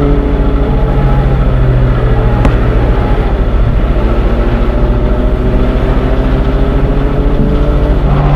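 Train sound effect: a loud, steady deep rumble with several held tones that drift slowly up and down in pitch, and one faint click about two and a half seconds in.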